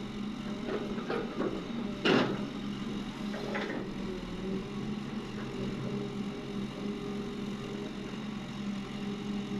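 Heavy diesel engine running steadily, with a few short noisy bursts over it in the first four seconds, the loudest a sharp one about two seconds in.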